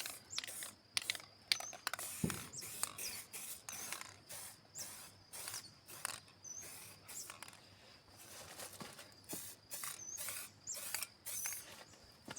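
A series of short, irregular scratching strokes, a few a second.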